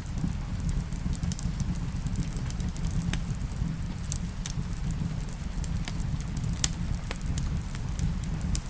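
Wood fire crackling in a fireplace, with scattered sharp pops over a steady low rumble, and rain falling steadily underneath.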